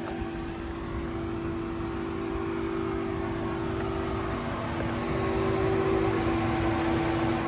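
Steady mechanical hum with a low drone and a constant tone, growing a little louder in the second half.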